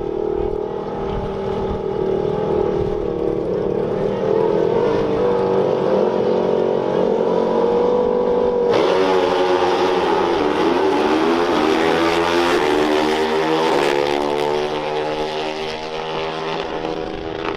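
Dirt bike engines held at steady revs for several seconds. About nine seconds in they get suddenly louder and brighter as they run at full throttle, the engine pitch repeatedly falling and climbing as they shift through the gears in a drag race.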